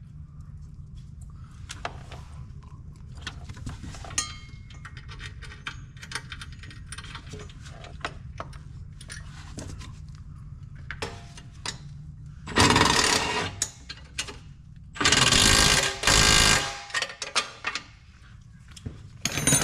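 Small metal clicks of washers and nuts being handled, then a power tool runs twice, each time for about a second and a half, tightening the nuts that bolt down the air compressor, with a short burst near the end.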